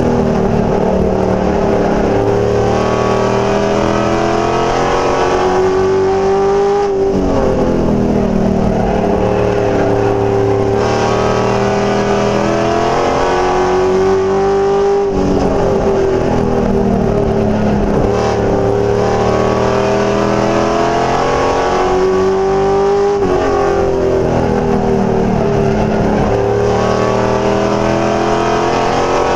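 NASCAR race truck V8 engine at racing speed. Its pitch climbs for several seconds, then drops sharply about every eight seconds as the driver lifts for the turns and gets back on the throttle.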